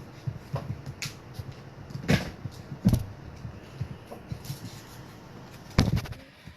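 Tabletop handling noise from paper and scissors: rustling with a series of sharp knocks and clicks, the loudest about two, three and almost six seconds in.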